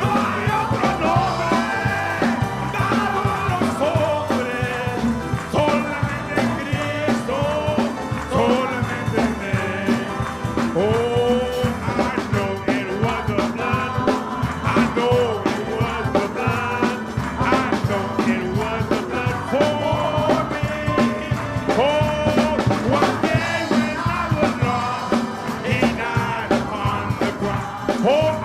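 A praise band playing an upbeat gospel song with a steady drum beat, and a lead part sliding and bending between notes.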